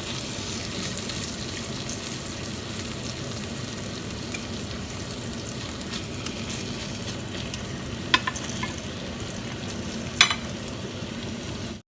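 Chicken sizzling as it fries in a pan, a steady crackling hiss. Two sharp knocks break through, about eight and ten seconds in, and the sound cuts off suddenly near the end.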